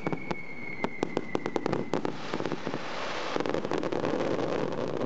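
Fireworks crackling: a quick run of sharp pops, then a dense fizzing crackle from about two seconds in. A faint falling whistle runs under the first two seconds.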